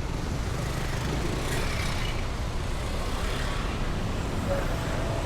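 Heavy road traffic: a steady, continuous rumble of vehicle engines and tyres.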